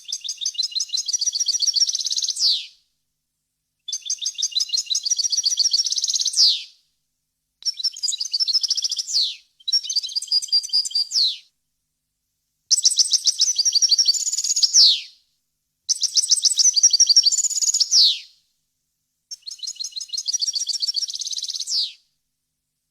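European goldfinch singing: seven song phrases of fast, high twittering notes, each two to three seconds long and ending in a falling note, with short silent gaps between them.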